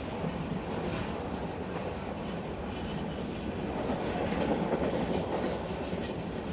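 Passenger train running along the track: a steady rumble of wheels and carriage with faint clicks, swelling a little about four seconds in.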